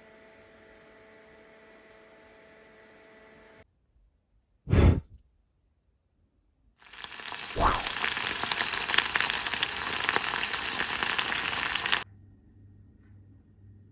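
A short, loud knock, then food sizzling and crackling in a hot frying pan for about five seconds before cutting off suddenly.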